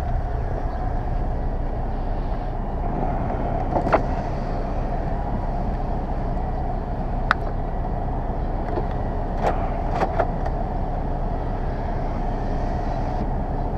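1999 Volvo S80 T6's twin-turbo straight-six idling steadily while the electric power windows are run, with a few sharp clicks.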